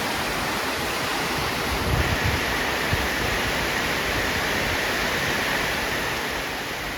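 Steady heavy rain falling, an even hiss that begins to fade near the end.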